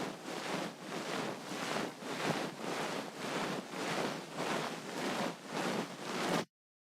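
Ear pick scraping and rubbing inside an ear close to the microphone, in even strokes about twice a second, cutting off abruptly about six and a half seconds in.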